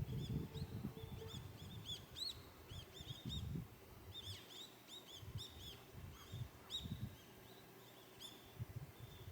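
Small birds chirping faintly, many quick arched notes one after another, with irregular low bumps and rumbles underneath.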